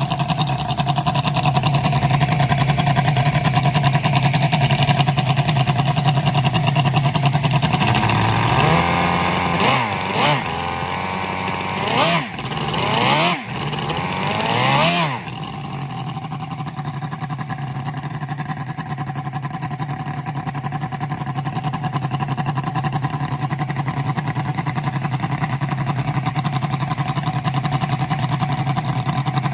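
Miniature Cosworth DFV V8 model engine idling steadily, then blipped several times, each rev rising and falling quickly in pitch, before settling back to a steady idle about halfway through.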